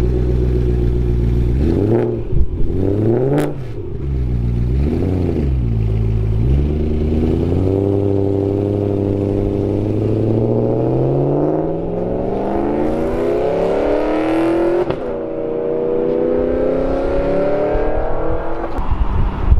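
Supercharged V8 of a BMW E93 M3 through a custom H-pipe exhaust: idling, then three quick blips of the throttle, then a long pull with the pitch climbing steadily. About fifteen seconds in the pitch drops sharply, as at an upshift, and climbs again.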